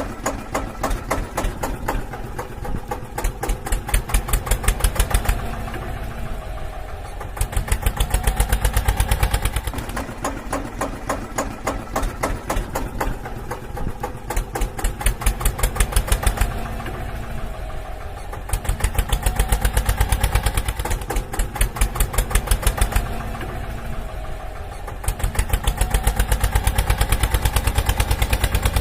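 Tractor engine running with a fast, even chugging beat. It swells louder for a few seconds at a time at recurring intervals.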